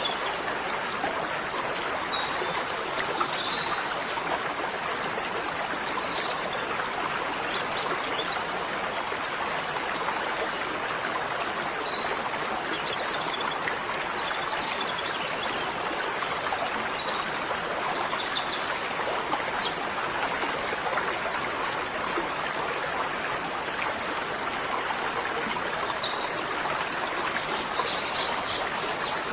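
Small birds chirping in short, high bursts, several times, over a steady rushing hiss.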